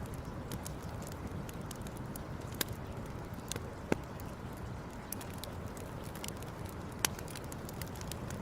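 Wood campfire crackling, with frequent small snaps over a steady low rush and three louder pops.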